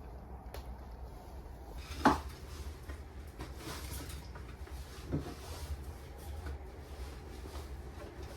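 Two knocks of something being handled, a sharp loud one about two seconds in and a softer one about five seconds in, with a few faint clicks, over a steady low rumble.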